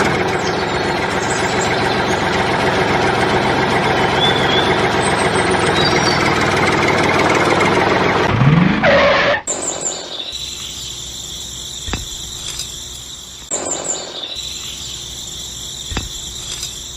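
An engine runs steadily and loudly, with a brief rising glide near its end. At about the middle it cuts to a quieter stretch: a steady high whine with a few sharp clicks and a short burst.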